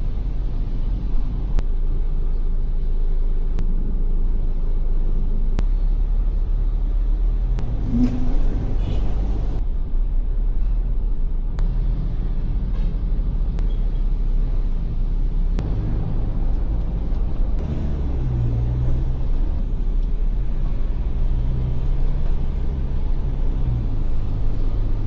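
Ford Everest SUV on the move: a steady low rumble of engine and road noise, its engine tone shifting now and then, with a few faint ticks.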